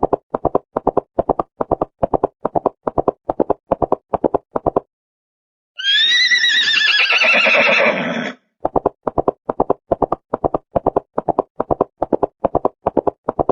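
Horse hooves clip-clopping in a quick, even rhythm, then a horse whinnying once for about two seconds, then the hoofbeats again.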